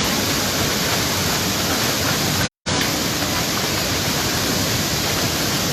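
Waterfall rushing steadily, a loud even roar of falling water; the sound drops out completely for a moment about two and a half seconds in.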